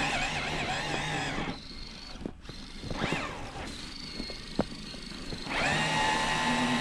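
Electric RC crawler motor and gearing whining under throttle in deep snow: a steady whine for about a second and a half, a quieter stretch with a brief rise and fall in pitch and a single click, then the whine picks up again steadily near the end.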